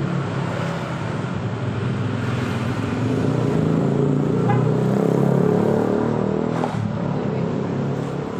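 A Toyota Avanza's engine running at low revs close by as the car pulls away, over the rumble of passing street traffic.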